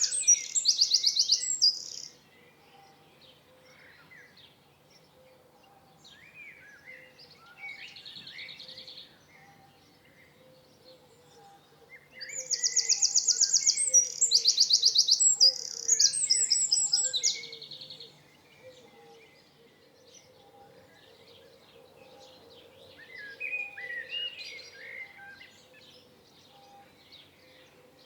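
Songbirds singing. Two loud bouts of fast, high trills, each a rapid run of repeated notes, come in the first two seconds and again from about twelve to eighteen seconds in. Softer chirps and short calls fill the gaps between.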